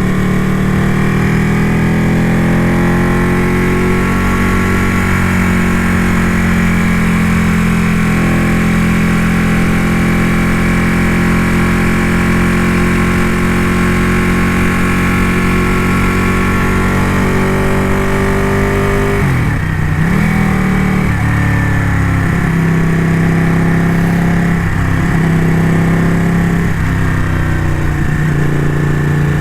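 Ducati motorcycle engine running at steady cruising revs while being ridden. About two-thirds through, the engine note dips and shifts pitch, then settles at a new steady note.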